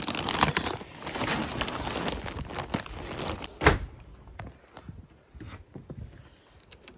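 Rustling and handling noise for about three seconds, then a single loud thump a little past halfway, followed by a few faint scattered clicks.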